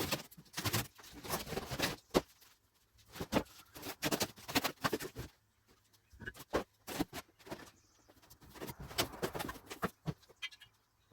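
Irregular clattering and knocking of metal parts being handled and fitted together while assembling grinder stands.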